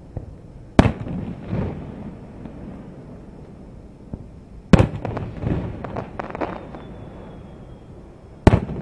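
Aerial firework shells bursting: three sharp booms about four seconds apart, each followed by a rolling echo and crackle.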